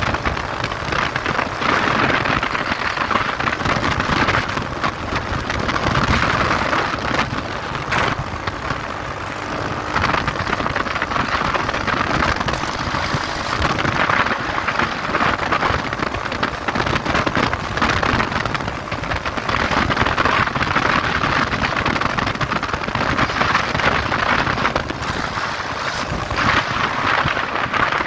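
Wind rushing over the microphone of a moving motorcycle, swelling and easing every few seconds, with the engine running under it.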